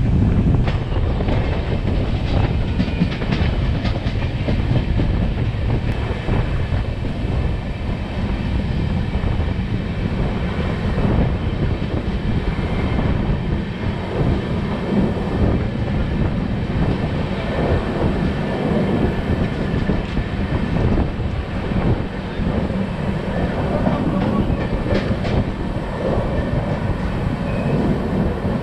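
Poorva Express LHB passenger coaches running on the track, heard from the open doorway: a steady loud rumble of wheels on rail with scattered clicks and clatter over rail joints.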